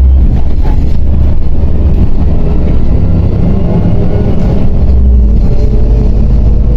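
MAZ 105.065 articulated city bus under way, heard from inside the cabin: a loud, steady low rumble of engine and road noise, with faint whining tones that drift slowly in pitch.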